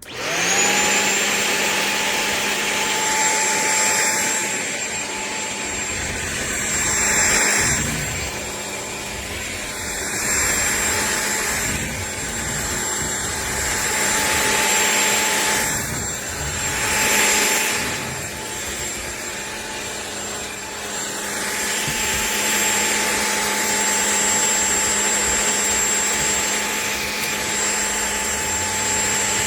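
Shark PowerDetect corded stick vacuum switching on and spinning up, then running with a steady motor whine. The rushing air swells and eases several times.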